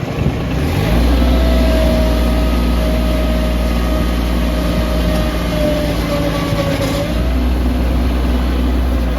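An engine starts up about a second in and runs steadily, with a low hum and a steady whine above it, dipping briefly near the end.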